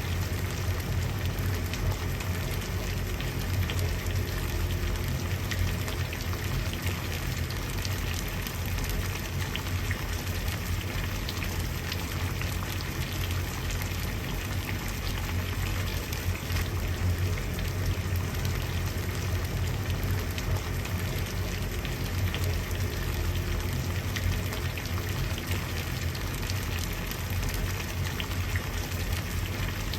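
Water at a boil, bubbling steadily, with a low rumble under a fine crackle of popping bubbles.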